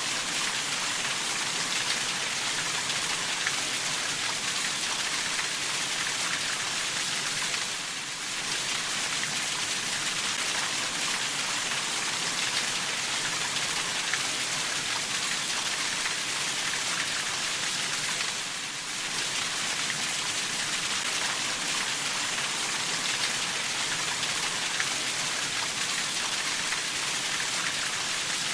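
Steady rainfall, a dense even hiss of many drops, dipping briefly in level twice.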